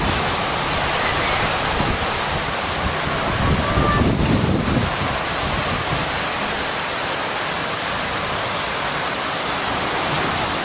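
Heavy rain falling, a steady dense hiss that swells slightly about four seconds in.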